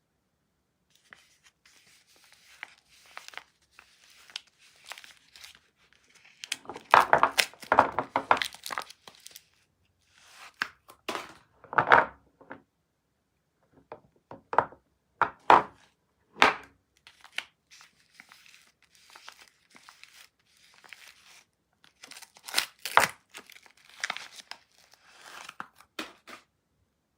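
Soap packaging being torn open and crinkled by hand during unwrapping, in irregular bursts of tearing and crackling with quieter rustling between them. The densest crackling comes about seven seconds in and again near the end.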